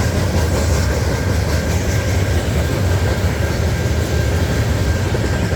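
Freight train cars loaded with steel rolling past steadily, a continuous low rumble of wheels on rail with a faint steady high whine.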